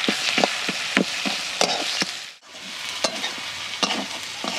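Spices and fish heads sizzling in hot oil in a wok (karai) as the masala is fried down. A metal spatula stirs and scrapes against the pan with repeated sharp clinks, and the sound breaks off briefly about halfway through.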